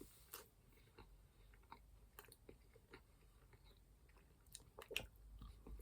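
Faint chewing of a milk chocolate frog: soft, scattered mouth clicks, with a couple of slightly louder ones near the end.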